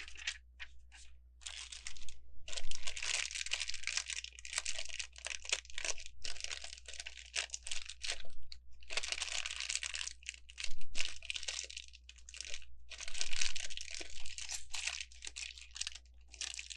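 Plastic bag crinkling and rustling as it is handled, in several long stretches, with short crisp clicks in between.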